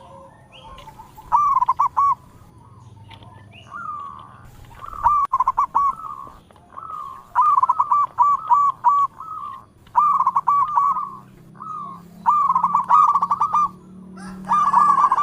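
Zebra dove (local perkutut) singing: about six phrases of quick, stuttering coos, each a second or two long, a couple of seconds apart.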